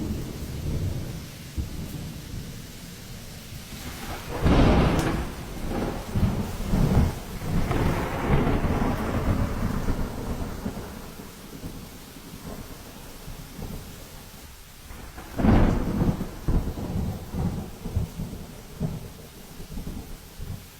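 Thunderstorm with rain: thunder rumbling low and continuously, with two loud claps, about four seconds in and again about fifteen seconds in, each followed by a long rumble.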